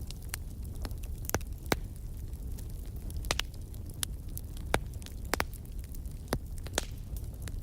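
Wood fire in a fireplace crackling, with a dozen or so irregular sharp pops over a low, steady rumble.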